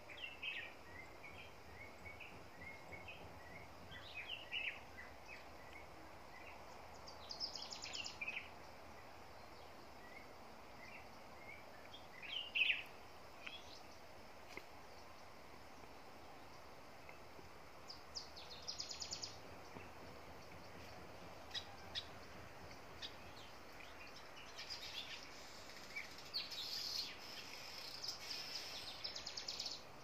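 Birds chirping and calling in short, scattered notes over a faint steady outdoor background, with brief trilling bursts a few times, the loudest call about halfway through.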